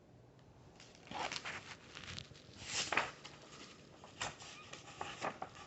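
Paper rustling in several short bursts as a picture book's pages are handled and turned.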